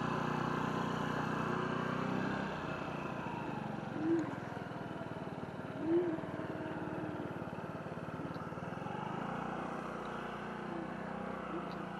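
Electric scooter riding noise: a steady motor hum over wind and tyre rumble, easing off about two and a half seconds in. Two short squeaks come near the middle.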